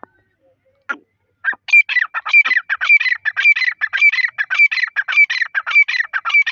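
A teetar (partridge) calling: a few single calls, then from about a second and a half in a fast, steady run of short, harsh repeated calls, several a second.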